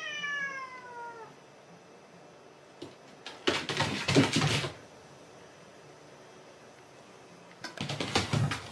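A cat meows once, its call falling in pitch, then lets out two short, harsh, noisy outbursts, the louder one about halfway through and another near the end.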